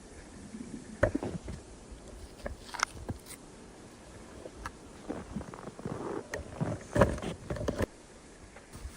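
Irregular knocks, thumps and short rustles, with a louder thump about a second in and a cluster of thumps around seven seconds in.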